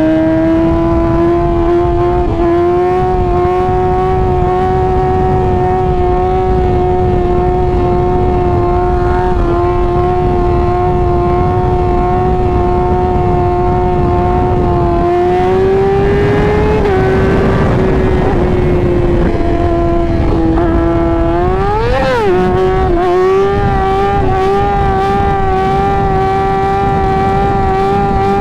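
2017 Yamaha R6's inline-four engine running at a steady high note while riding, over wind rush on the microphone. About halfway through the note climbs and falls back, and a few seconds later it gives one quick sharp rise and drop before settling slightly higher.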